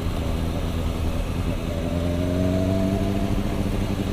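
Sport motorcycle engines running, a steady low rumble, with one engine's pitch rising slowly from about a second and a half in as it gains revs.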